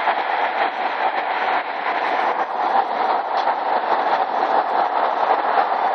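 Steady rushing noise of a Honda Gold Wing motorcycle on the move, the engine drone blended with wind and road noise, without change in pitch or level.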